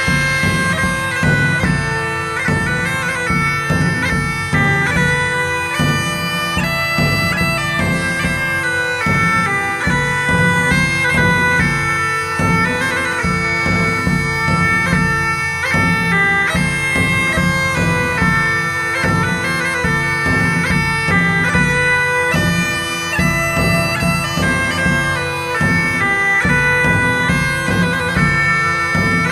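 Bagpipe music: steady drones held underneath a moving melody, with a regular drum beat.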